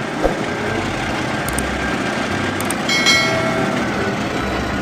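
A train running on rails: a steady, dense rumble of locomotive and carriages, with a brief high tone about three seconds in.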